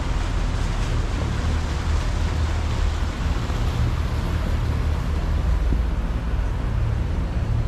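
Motorboat under way: its engine runs as a steady low rumble under a constant hiss of wind and rushing water.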